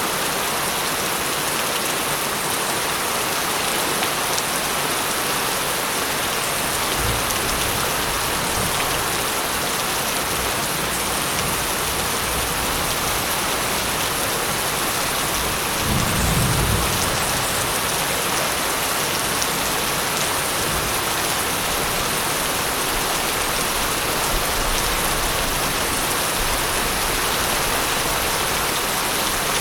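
Steady rain falling with a continuous hiss, with low rolls of thunder: a faint rumble about a quarter of the way in and a stronger, longer one about halfway through.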